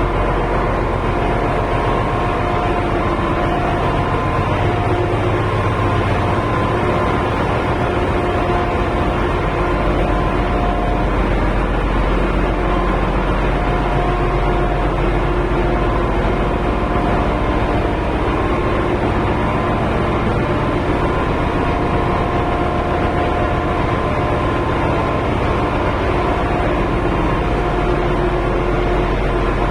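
Ship's engine-room machinery running: a loud, steady mechanical din with a few steady whining tones that fade in and out.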